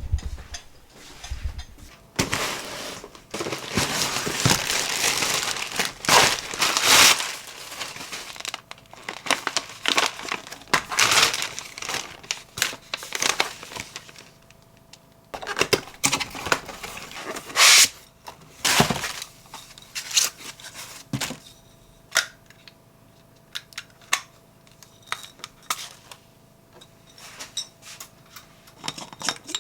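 Packaging crinkling and rustling as it is handled, in long stretches over the first half, then scattered sharp clicks and light knocks.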